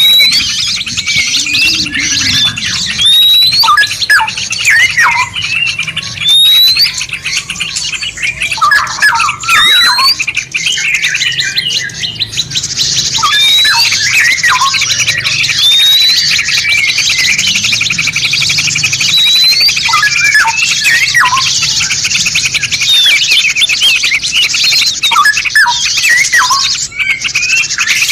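Several songbirds singing over one another in a layered songbird-training mix. A short rising whistled note repeats about every one and a half seconds over other calls and trills, and a dense high chattering song thickens about halfway through. A steady low hum runs underneath.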